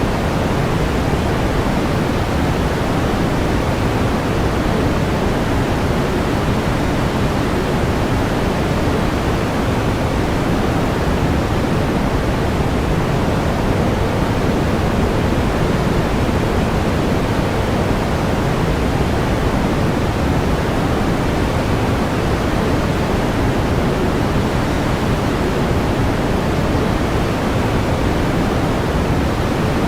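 Steady pink noise: an even, unchanging hiss with more weight in the low end than the high, with no variation.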